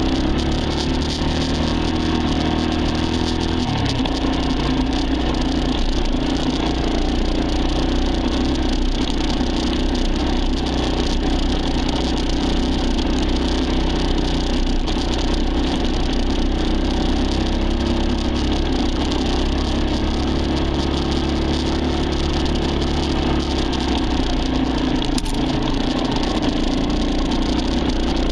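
Dirt bike engine running at a nearly steady pitch, with one brief click near the end.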